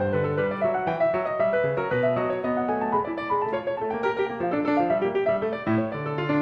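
Calm background piano music: a steady flow of notes over a low accompaniment.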